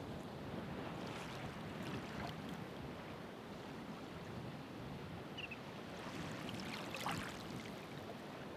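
Ocean surf washing in steadily, with a wave breaking about a second in and a louder one breaking and hissing about seven seconds in.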